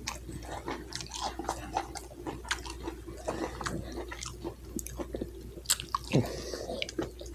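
Close-up wet chewing with mouth clicks and smacks, then a bite into a double cheeseburger about six seconds in.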